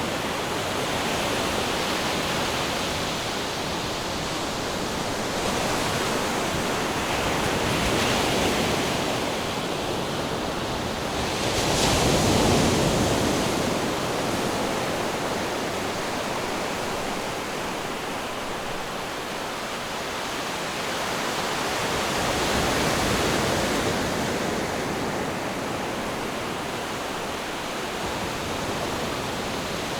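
Ocean waves breaking and washing on the shore, a steady rushing surf that swells and fades slowly, with the loudest wave about twelve seconds in.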